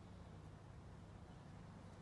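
Near silence: a faint steady low hum with background hiss.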